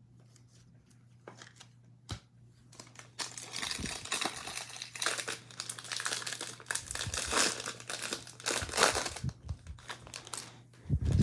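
A Topps baseball card pack's wrapper being torn open and crinkled, a dense crackling that starts about three seconds in and keeps going for several seconds, with a dull low thump near the end.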